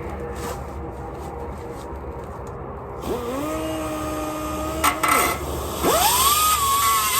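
A high-speed cut-off tool whining as it cuts through a steel exhaust clamp band. It starts about three seconds in and stops briefly just before five seconds. Then it spins up to a higher, wavering whine with a rasping hiss as it bites into the metal.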